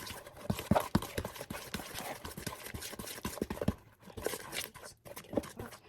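A utensil knocking and scraping against a mixing bowl as cookie ingredients are mixed, in a quick, uneven run of clacks with a brief pause near the four-second mark.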